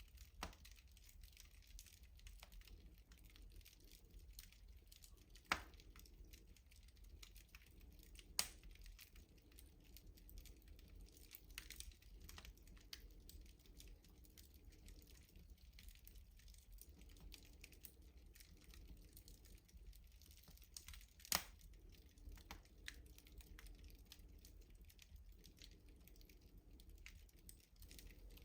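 Wood fire crackling in a rustic wood-burning stove: a faint, irregular patter of small ticks, with three sharper, louder pops at about 5 seconds, 8 seconds and 21 seconds.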